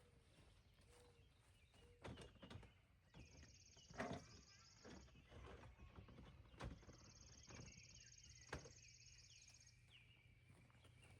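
Quiet outdoor ambience with two long, high, evenly pulsed trills, the first about 3 seconds in and the second from about 6 to 10 seconds, amid faint chirps and a few soft knocks.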